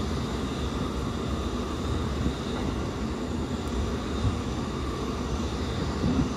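Steady running noise inside a JR Keiyo Line rapid train carriage in motion: an even low rumble of wheels on rail and running gear, with no distinct events.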